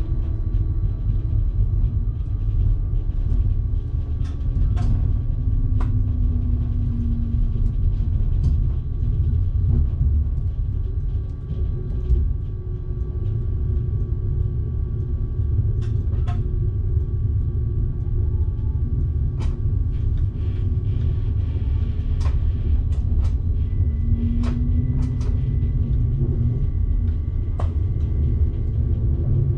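Electric passenger train running on the Bergen Line, heard from the driver's cab: a steady low rumble of wheels on rail with faint motor tones that rise and fall, and scattered sharp clicks.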